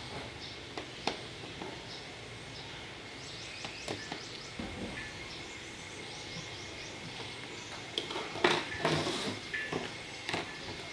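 Background noise with short high chirps in the middle, a few sharp clicks, and a cluster of knocks and handling sounds about eight seconds in.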